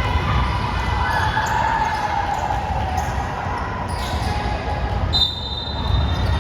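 Basketball game sounds in a gym: a ball bouncing on the hardwood court amid echoing hall noise. A brief high-pitched squeal comes about five seconds in.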